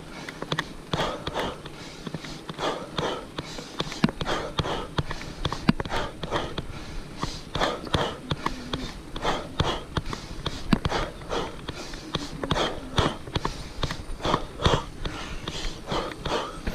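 A cyclist breathing hard and rhythmically in short, rough puffs about every half second to second while grinding up a steep climb, at the edge of exhaustion.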